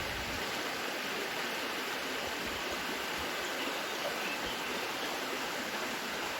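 Forest river water running with a steady rushing.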